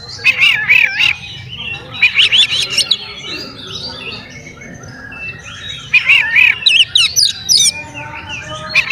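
Oriental magpie-robin (kacer) singing: loud bursts of quick, warbling whistled phrases, with short pauses between them.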